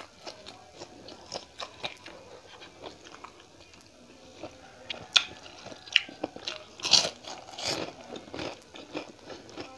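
Close-miked mouth sounds of eating: crisp bites and wet, smacking chewing of a boiled okra pod, with finger-licking. The chewing grows loudest about seven seconds in.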